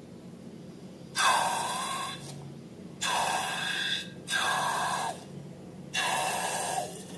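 Four breathy, hissing bursts of rushing air, each about a second long and starting suddenly.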